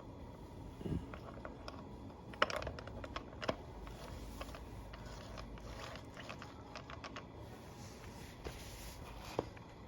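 Scattered light clicks and knocks of metal engine parts and hand tools being handled while assembling the bottom end of a Yamaha XS2 engine: a dull knock about a second in, then sharper clicks around two and a half, three and a half and nine seconds in.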